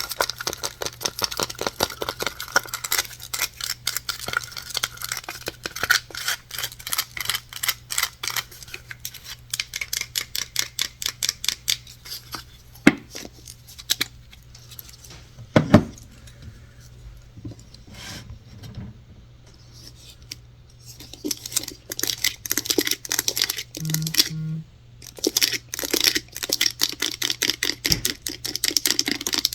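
Fast, close-up tapping and scratching on objects, many light taps a second. It thins out to a few separate louder knocks in the middle, then the quick tapping picks up again about twenty seconds in.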